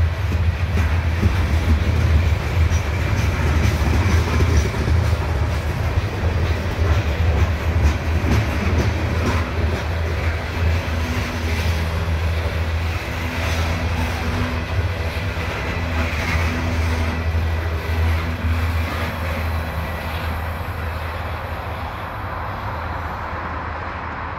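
CSX coal hopper cars rolling past on the track: a steady, heavy low rumble with the wheels clicking over rail joints. It fades over the last several seconds as the end of the train moves away.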